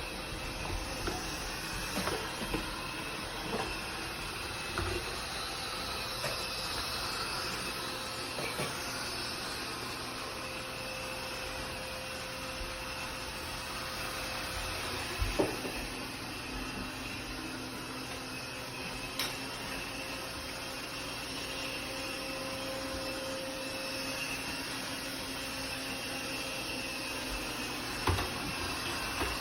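Laresar robot vacuum running with a steady whirring hum, with a few light knocks, the loudest about halfway through and near the end.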